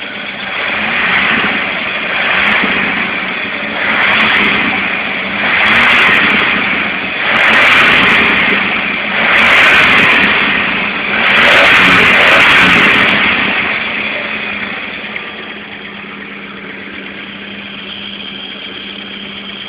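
Chevrolet Opala engine idling, then revved six times about two seconds apart, the revs growing louder and the last held longest, before it settles back to a steady idle.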